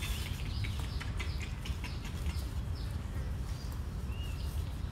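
Faint short high chirps of small birds, with scattered soft clicks over a low steady rumble.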